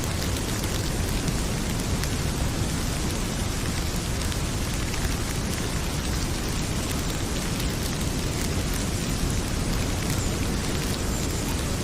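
Heavy rain pouring in a steady, dense hiss, with the light pops and crackles of a wood fire burning in a fireplace scattered through it.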